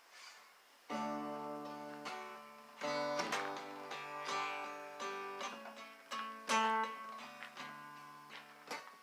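Acoustic guitar playing an instrumental intro: plucked and strummed chords, a new chord struck roughly every second and left to ring, starting about a second in.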